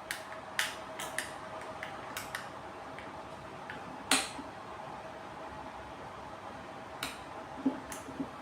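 Scattered sharp clicks and taps of small hard objects being handled, the loudest about four seconds in, over a faint steady hum.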